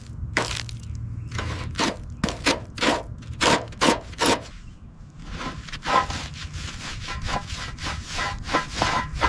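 Rough back-and-forth rubbing strokes of hand sanding or rasping, about two or three a second at first. After a short pause near the middle they come quicker and closer together.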